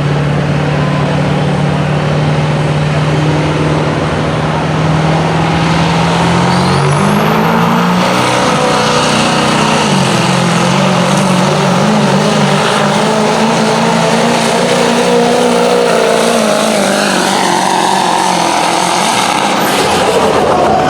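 Outlaw-class diesel pulling truck's engine held at a steady note, then opening up about six seconds in with a rising turbo whistle. It runs hard under load for the rest of the time, its pitch wavering.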